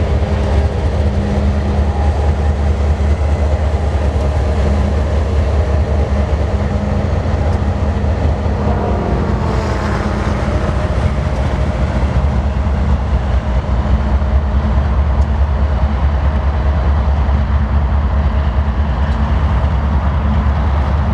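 Rear distributed-power diesel locomotives of a freight train running under power, a steady low engine rumble: they are working to push, helping the lead engine.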